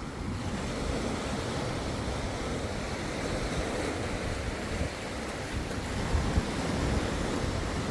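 Waves washing onto the beach, mixed with wind buffeting the microphone, rumbling low down.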